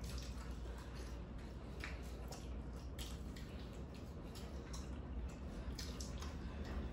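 People chewing and eating with wet, smacking mouth sounds and irregular small clicks, over a steady low hum.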